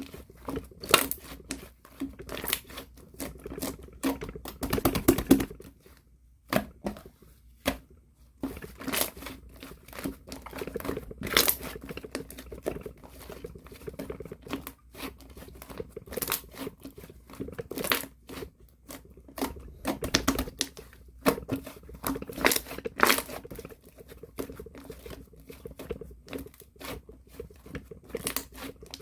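Two-layer slime worked by hand, squished and stretched, giving an irregular stream of sticky pops and crackles.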